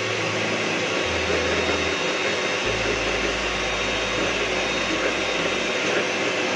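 Electric mixer running steadily, beating whipping cream powder and milk that is thickening toward a soft, thick whipped cream.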